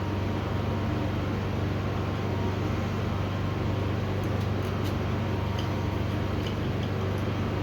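Steady low machine hum, with a few faint light clicks about halfway through and near the end.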